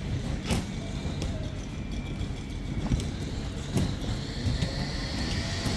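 Train rumbling steadily through the station, with a few sharp clicks.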